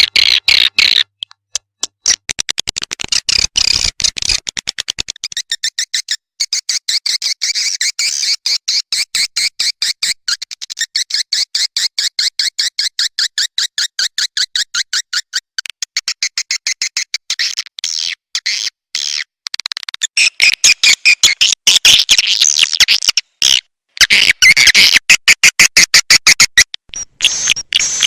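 Swiftlet calls: rapid, high-pitched chirping twitters packed many to the second, in long runs broken by short pauses. This is a recorded swiftlet call-lure track of the kind played from swiftlet houses to draw birds in to roost and nest.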